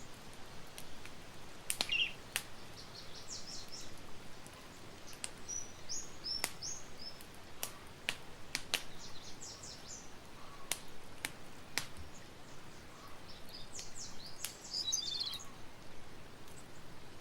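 Campfire crackling with sporadic sharp pops over a soft steady hiss, while small birds call in several quick runs of high chirping notes.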